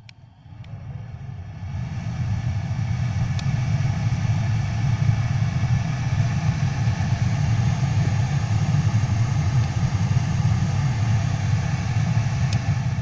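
Honda CR-V RD1 heater blower fan spinning up over about two seconds, then running steadily with a low hum.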